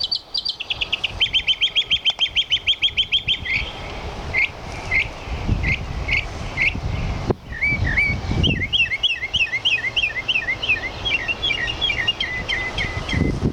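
Northern mockingbird singing, repeating each phrase several times before switching: first a fast run of identical high notes, then slower, spaced single notes, then a quick series of paired two-note phrases.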